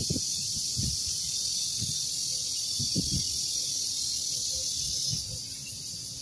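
Cicadas buzzing in a steady high chorus, which eases a little about five seconds in, with a few soft low thuds underneath.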